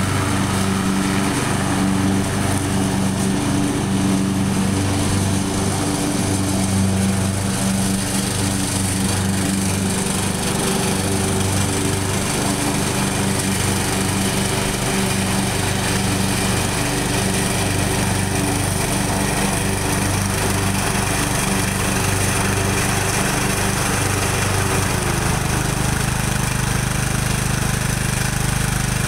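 Small tractor engine running steadily, its note shifting about 25 seconds in.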